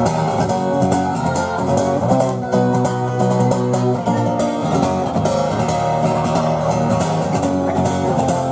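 Acoustic guitar strumming chords in a steady rhythm, with no singing over it.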